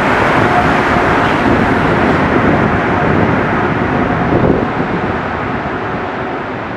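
Canadian Vickers MR-63 rubber-tyred metro train pulling out of the station, a loud even rush of running noise that slowly fades as it moves away. The air pushed along by the train buffets the microphone.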